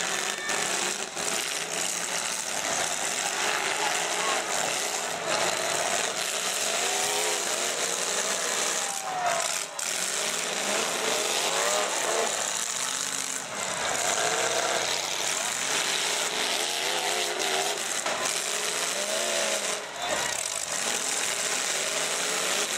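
Demolition derby cars' engines running and revving hard, their pitch rising and falling again and again over a continuous din.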